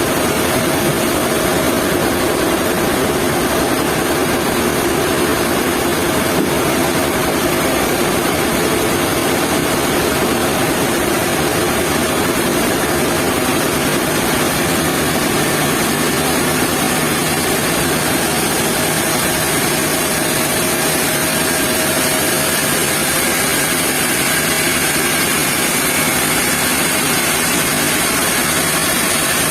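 Sawmill machinery running steadily and loudly, a dense even mechanical noise with a few faint steady tones and no breaks.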